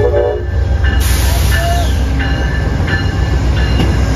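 Amtrak GE Genesis diesel-electric locomotive running past at close range, its engine making a loud, deep rumble, with wheel and rail noise rising about a second in as it comes alongside. A brief horn chord sounds at the start, and a high bell-like ringing repeats about once a second.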